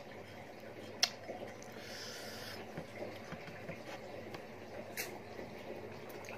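Faint mouth sounds of a person chewing chicken dim sum, with two short sharp clicks, one about a second in and one near five seconds.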